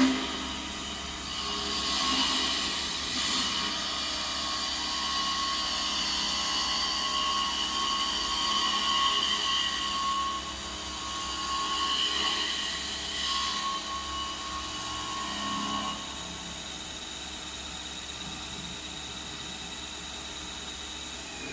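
Small wood lathe running with a steady motor whine, while a tool cuts the spinning wood with a loud hiss. The cutting stops about three quarters of the way through, and the lathe runs on more quietly.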